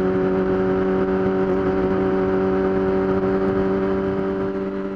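Yamaha R6 inline-four engine running at a steady cruising speed, a constant hum, with wind noise on the helmet microphone. It starts to fade out near the end.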